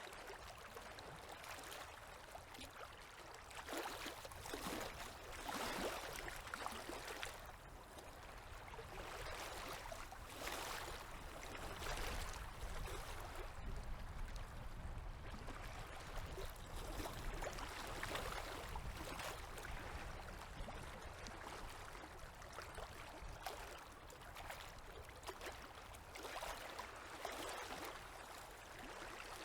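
Small river waves lapping at the shore: a steady wash of water with soft swells every few seconds.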